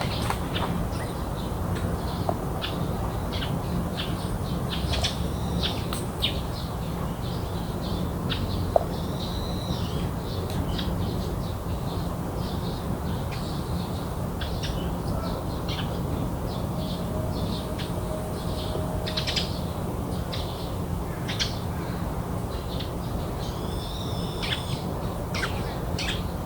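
Wild birds calling in a garden: scattered short chirps and a few repeated arching calls, over a steady low background rumble. One sharp click comes about a third of the way in.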